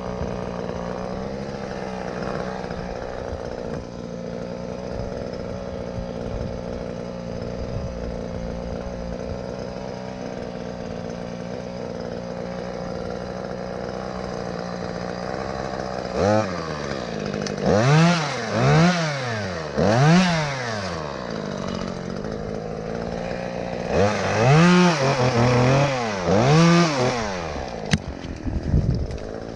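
Chainsaw engine idling steadily, then revved up and down in repeated bursts, twice: a run about halfway through and another near the end.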